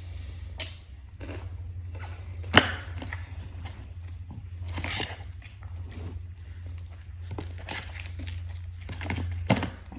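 Close-miked eating of crispy fried chicken: irregular crunching bites, chewing and crackling. Two sharp, louder clicks stand out, one about two and a half seconds in and one near the end, over a steady low hum.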